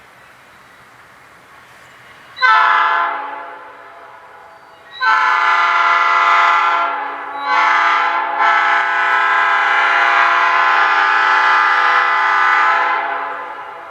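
Diesel locomotive air horn, on an ex-CSX GE U-boat, sounding a chord: a short blast, then a long blast, then a longer one of about six seconds that fades near the end.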